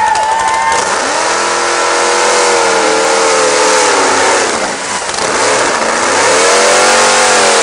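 Monster truck engine revving, the pitch climbing and falling back twice.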